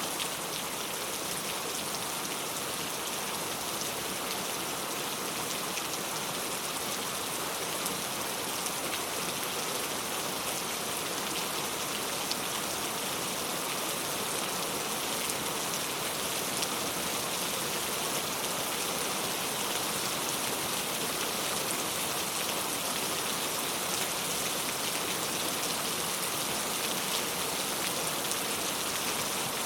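Heavy rain falling steadily, a dense hiss with many individual drops patting on surfaces.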